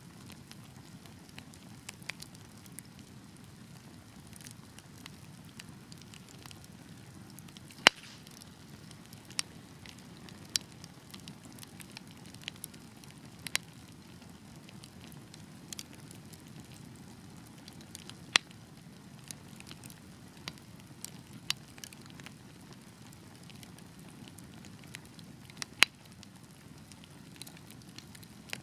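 Wood fire burning in a fireplace: a steady low rumble of flames with scattered sharp crackles and pops, the loudest pops at irregular intervals several seconds apart.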